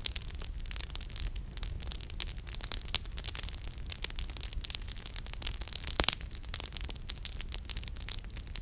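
Wood campfire crackling, with frequent small snaps and two louder pops about three and six seconds in, over a steady low rumble.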